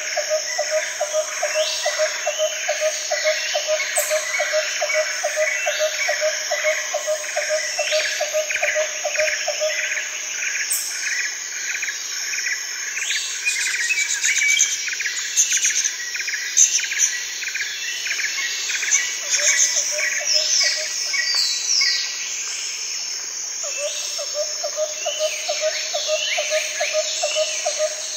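Outdoor chorus of many birds chirping and insects calling. A rapid, evenly pulsed lower call runs through the first ten seconds, stops, and returns briefly later and again near the end.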